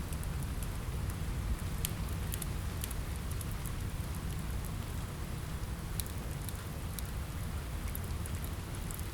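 Steady rain with a low rumble underneath, mixed with a wood fire crackling: irregular sharp pops scattered through it.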